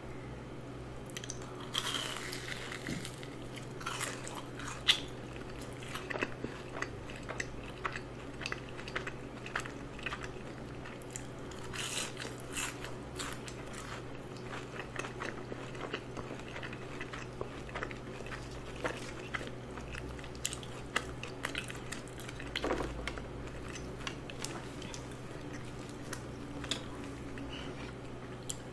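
Close-miked biting and chewing of a crispy fried cheese ball: scattered crunches and small wet mouth clicks, with one sharper crunch about five seconds in.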